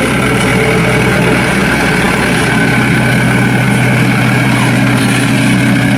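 Toy dump truck's electronic sound effect: a recorded truck engine idling, steady and loud.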